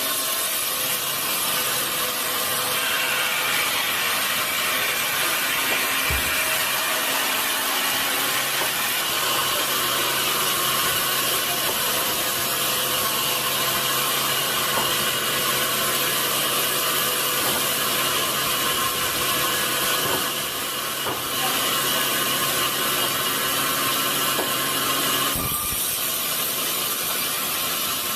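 Sawmill saw cutting through a large redwood log, a steady machine noise with a low hum. There is a short knock about six seconds in, and the sound changes near the end.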